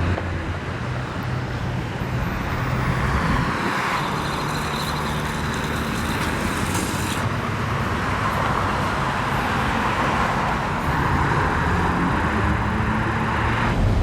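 Street traffic at a car cruise: car engines running and tyres passing on the road in a steady wash of traffic noise.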